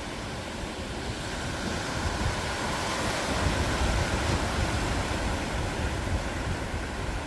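Ocean surf on a beach: a steady rush of waves that swells about three seconds in and eases off toward the end, with wind rumbling on the microphone.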